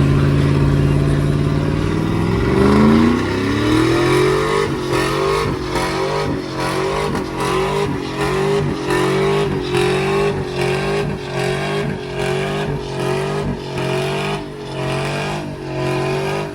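A truck engine running steadily, then revved up and blipped over and over, about one and a half revs a second, before dropping back at the end.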